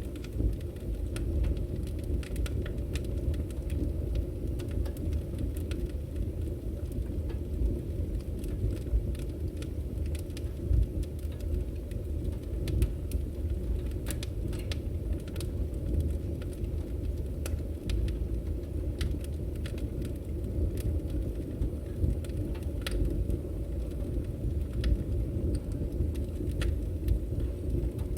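Wood fire burning: a steady low rumble of flames with scattered, irregular sharp crackles and pops from the burning logs.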